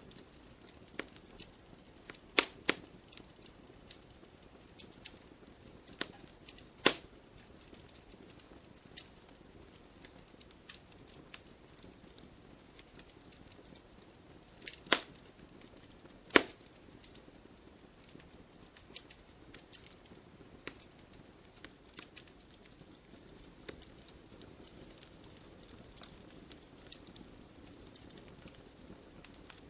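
Campfire burning: wood crackling with irregular sharp pops over a faint steady hiss, a few pops much louder than the rest.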